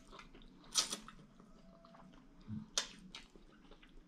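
Close-up chewing of a mouthful of cooked greens: soft wet mouth smacks and clicks, the loudest about a second in and a couple more near the three-second mark.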